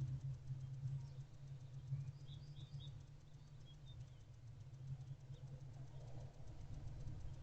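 Steady low hum with a scatter of faint, short, high bird chirps about two to three seconds in.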